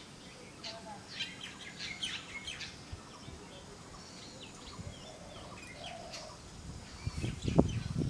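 Small birds chirping: quick, high calls and short slurred notes, thick in the first three seconds and thinning out after. Near the end a loud, low rumble comes in.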